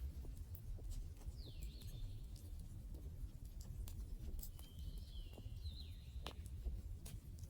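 Wood fire crackling, with scattered sharp pops over a low, steady rumble of the flames. A bird calls twice behind it, about a second in and again around five seconds, each time in a few high gliding notes.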